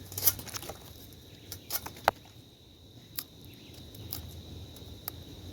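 Insects, crickets, chirring steadily in a high thin tone, with about half a dozen scattered sharp snaps and clicks as a pineapple is cut from its plant and handled.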